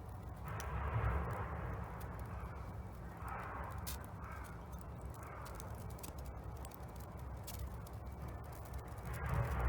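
A crow cawing about five times, the longest call about a second in and the last near the end, over a wood fire in a Solo Stove Bonfire crackling with sharp pops throughout.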